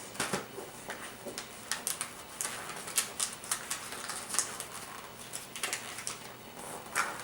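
Wrapping paper crinkling and rustling as a present is folded and wrapped, with many quick, irregular crackles and light taps.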